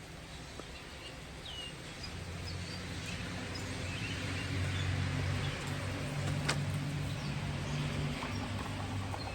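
A low steady hum that slowly grows louder, with faint bird chirps over it.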